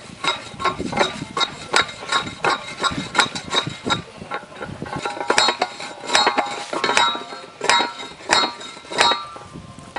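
Homemade tube post driver slamming down on a metal post, each blow a sharp metallic clank with a ringing tail. The strikes come quick and light for the first few seconds, then after a brief lull six louder blows land a little under a second apart.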